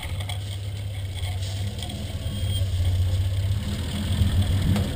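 Engine of a modified off-road competition 4x4 running at low revs out of sight, a steady low drone that grows louder about halfway through, with a sharp click near the end.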